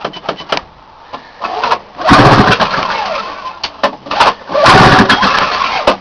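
Ski-Doo MX Z two-stroke snowmobile engine with straight pipes being started: after a pause it fires and runs in a loud burst about two seconds in, falters, then catches again, loud, near the end.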